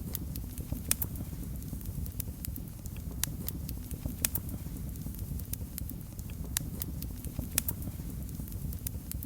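Fireplace fire crackling: irregular sharp pops and snaps over a low, steady rumble of flames.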